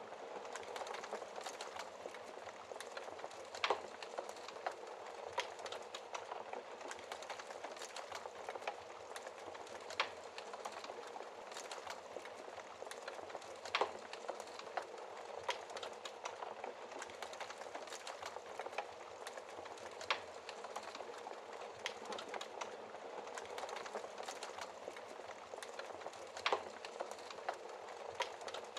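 Wood fire in a fireplace crackling: a steady hiss of burning with frequent small crackles and an occasional louder pop every few seconds.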